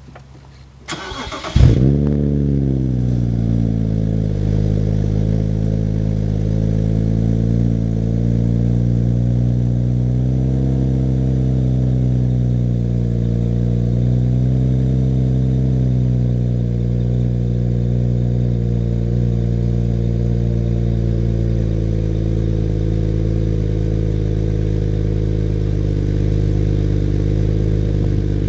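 BMW 335i's turbocharged 3.0-litre inline-six, breathing through an ETS aftermarket exhaust, started from cold. The starter cranks briefly about a second in, then the engine catches with a loud flare of revs that falls away within a couple of seconds. It settles into a steady fast cold idle that rises and dips slightly now and then.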